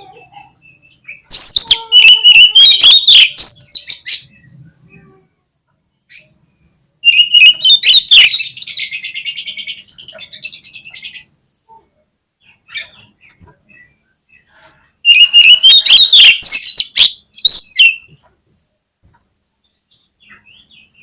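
Oriental magpie-robin (kacer) singing in three loud bursts of quick, varied whistles and chatter, the middle burst running into a harsh buzzy rattle.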